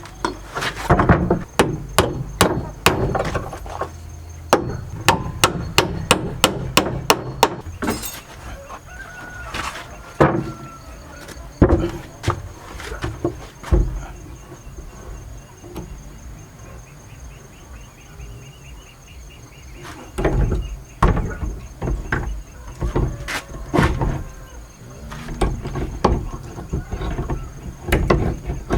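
Repeated knocks and taps of hand work on wood, like hammering. They quicken to a fast run of about five a second, then turn sparse and return near the end.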